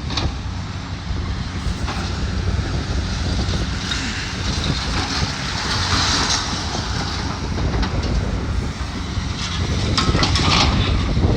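Steady rumble of heavy demolition machinery mixed with wind buffeting the microphone. A rush of hissing noise swells and fades in the middle, and a few sharp knocks come near the end.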